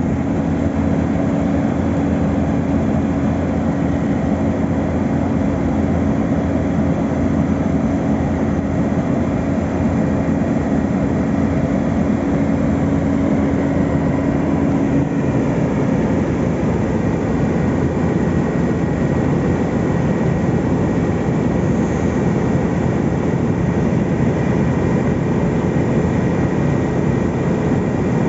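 Heavy road-building machinery running steadily during asphalt paving, a continuous loud diesel engine rumble. A droning tone in it drops away a little past halfway.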